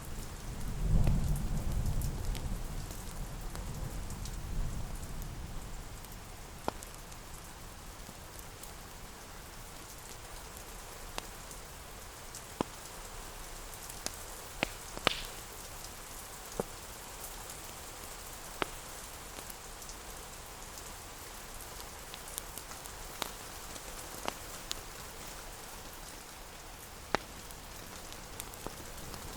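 Steady rain falling, with a low rumble of thunder starting about a second in and fading over the next few seconds. Occasional sharp pops from a crackling wood fire sound over it.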